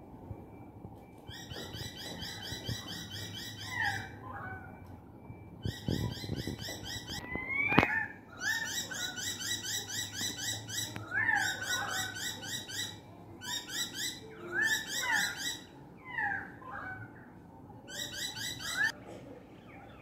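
Australian magpies and currawongs calling loudly together: bursts of rapid, repeated notes, with short falling notes between them. One sharp knock, the loudest sound, comes about eight seconds in.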